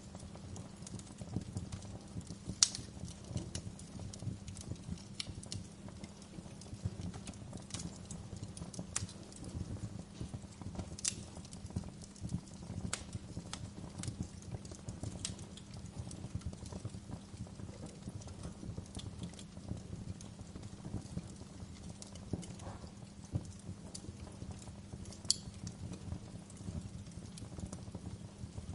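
Wood fire crackling in a fireplace: a steady low rumble of flames with scattered sharp pops and snaps, the loudest pop a few seconds in and another near the end.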